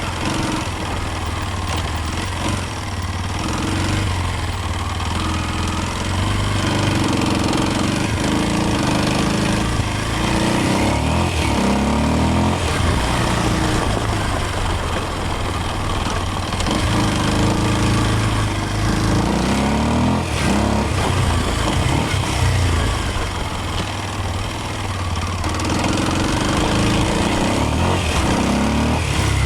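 Kawasaki KLX230's air-cooled single-cylinder four-stroke engine running under way, its pitch repeatedly rising and falling as the throttle is worked and gears change, with wind noise over it.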